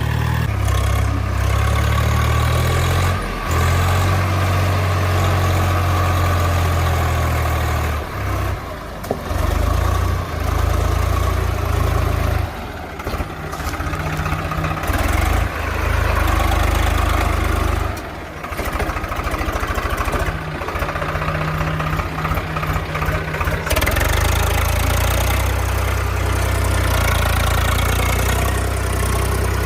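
Tractor engine running steadily, with its note dipping and shifting a few times.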